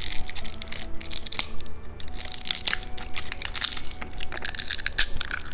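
Candy being crunched and chewed close to the microphone: a dense, irregular run of crisp crackles with no let-up.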